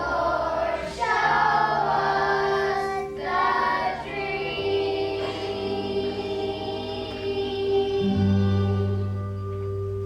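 Children's choir singing a song over instrumental accompaniment with held bass notes; the voices end on a sustained note about nine seconds in and the accompaniment fades out.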